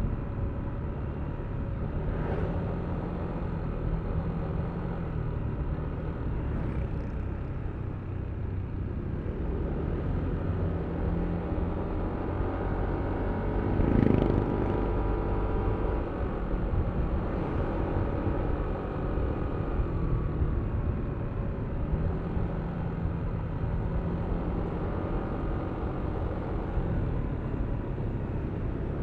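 Yamaha Aerox V3 scooter's 155 cc single-cylinder engine running under way, with wind and road noise. It swells louder about halfway through as the pitch shifts.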